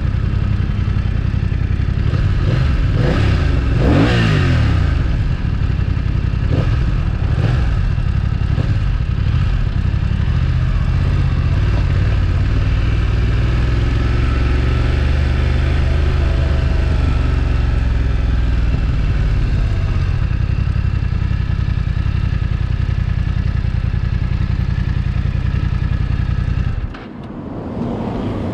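BMW F900XR's parallel-twin engine and exhaust heard onboard while riding: the revs rise and fall a few times early on with gear changes, then it runs steadily at a low, even pitch. The engine sound cuts off abruptly near the end.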